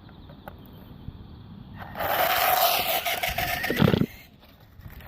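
Radio-controlled toy truck running: a loud burst of scraping rush with a steady whine, about two seconds long, that cuts off suddenly.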